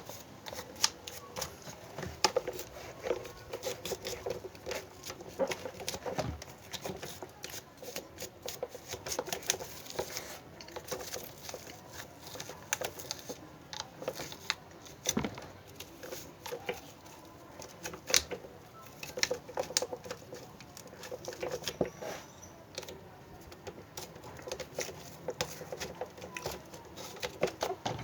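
Irregular clicks, taps and knocks of plastic electric fan parts being handled and cleaned, several a second with short pauses between.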